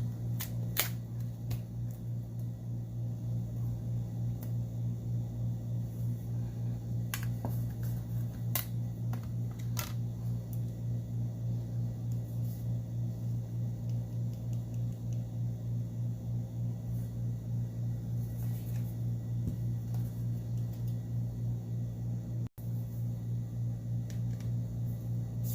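Steady low hum with a slight pulse, and a few sharp small clicks about a second in and again around seven to ten seconds in: hand tools working on the plastic and metal parts of an opened Galaxy Note 8.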